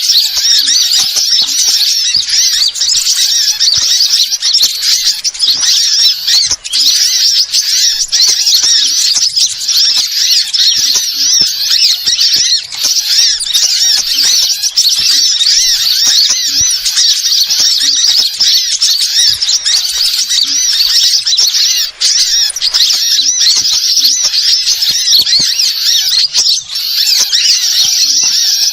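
Many small birds chirping and twittering in a dense, continuous, high-pitched chorus, played as a bird-lure (pikat) call recording to draw in wild birds.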